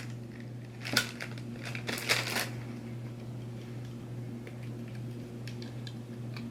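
Crinkling and rustling of packaging being handled, in a few short bursts, then faint clicks, over a steady hum.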